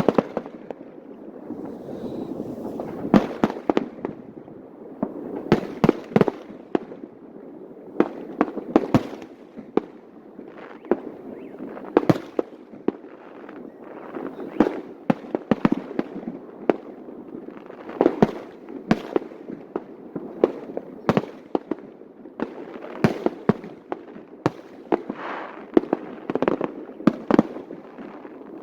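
Aerial fireworks display: a continuous run of sharp shell bursts and bangs, several a second at the busiest moments, over a steady rumble of distant explosions.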